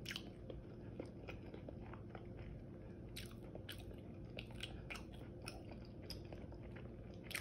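Close-up chewing of crispy air-fried chicken wings: soft mouth sounds broken by many short, scattered crunchy crackles.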